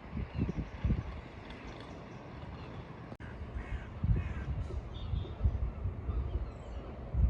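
Wind gusting on the microphone in irregular low rumbles, with crow-like birds cawing faintly several times. A single sharp click about three seconds in.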